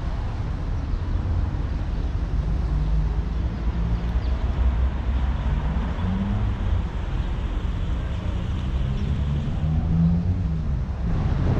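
Steady low rumble of wind buffeting the camera microphone, with a faint engine hum from vehicle traffic that wavers in pitch.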